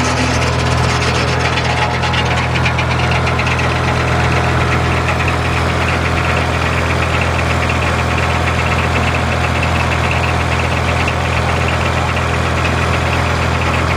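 Engine driving an old sawmill, running steadily at constant speed with a rapid, even beat.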